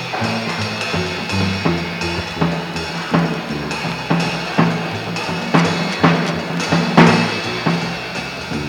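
Live 1962 free-leaning jazz trio recording: a double bass plays a line of low notes under a drum kit, with sharp snare and bass drum hits about every half second to a second, the loudest around seven seconds in.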